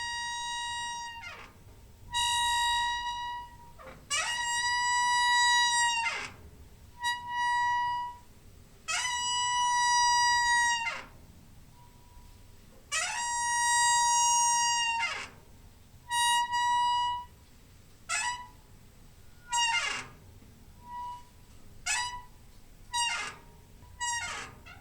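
Door hinge squeaking over and over: drawn-out, steady-pitched creaks of one to two seconds, each bending down in pitch as it ends, giving way to shorter squeaks in the second half.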